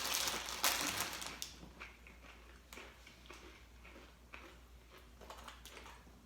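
A rustle of handling noise for the first second and a half, then faint scattered taps and clicks as things are moved about.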